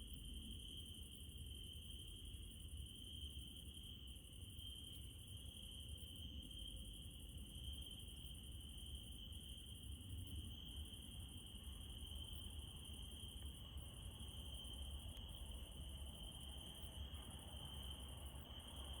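Crickets chirping in a steady, unbroken high trill, over a faint low rumble.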